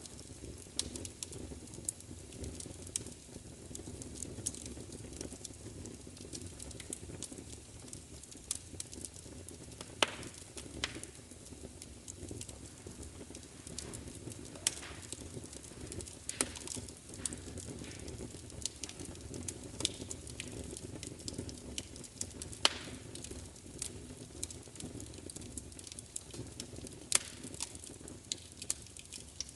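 Fire crackling, with sharp pops scattered irregularly over a steady low rumble; a few pops stand out louder, about ten seconds in, near twenty-two seconds and near twenty-seven seconds.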